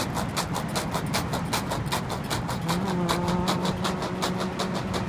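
A fast, even rattle of about seven beats a second over a low drone, with a held low tone coming in about halfway through.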